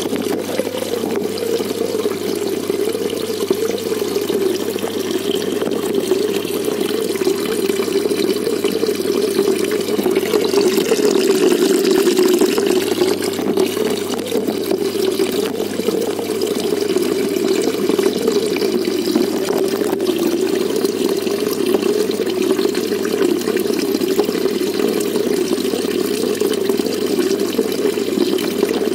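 Steady rush of water flowing and splashing in a koi pond, even throughout, with a faint low hum underneath.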